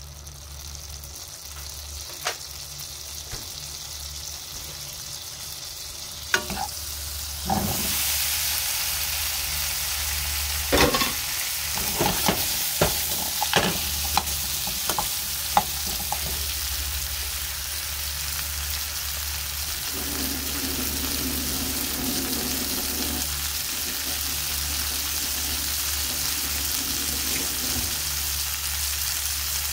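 Butter sizzling faintly in a frying pan, then chunks of potato go in about a quarter of the way through and the frying becomes a loud, steady sizzle. A metal ladle knocks and scrapes against the pan several times midway as the potatoes are stirred.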